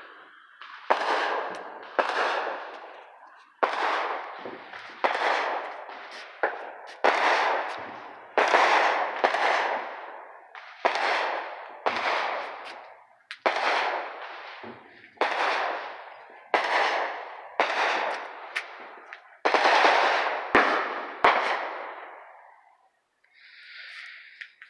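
Aerial fireworks bursting in a steady run of sharp bangs, about one every second or so, each echoing away before the next.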